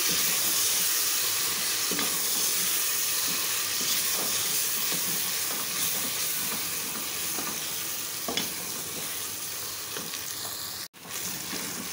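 Onions, green chillies, whole spices and ginger-garlic paste sizzling in hot oil in an aluminium pressure cooker while being stirred with a wooden spoon, which knocks and scrapes against the pot now and then. The sound cuts out for an instant near the end.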